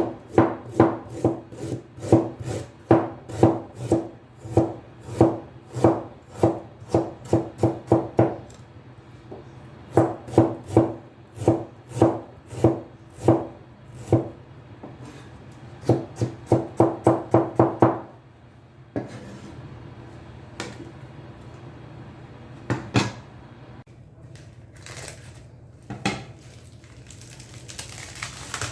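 Knife chopping on a wooden chopping board, with steady strokes of about two a second in runs, a quicker run of about four a second, then a few scattered knocks near the end.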